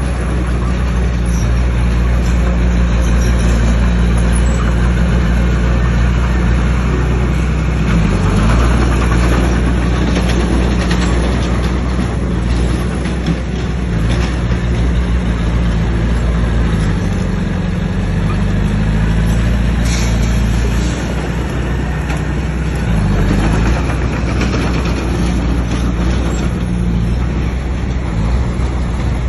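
Bulldozer's heavy diesel engine running under load, its pitch dipping and recovering several times, with a noisy clatter and a few sharp knocks over it.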